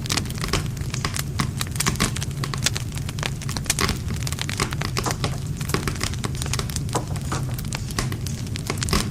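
Wood campfire burning, with a steady low rumble of flame and dense, irregular crackles and pops of burning wood.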